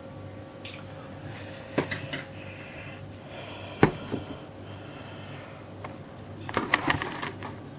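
Handling noises from feeding gear: a few sharp clicks and knocks, the loudest about four seconds in, and a cluster of rattling taps near the end.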